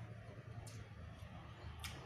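Faint mouth sounds of a man eating rice and side dishes with his fingers: soft chewing with two short, sharp smacks, over a low steady hum.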